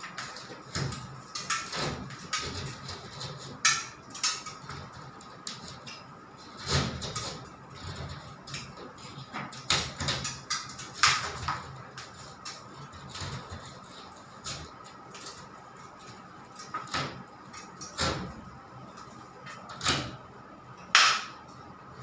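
Irregular knocks, taps and scrapes of hand tools and materials being handled, a dozen or so at uneven intervals, the sharpest about 21 seconds in, over a faint steady hum.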